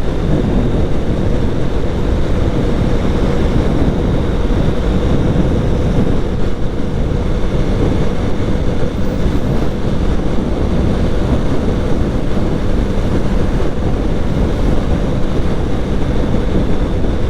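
Steady wind rush on the microphone while riding a motorcycle, with the motorcycle running steadily underneath.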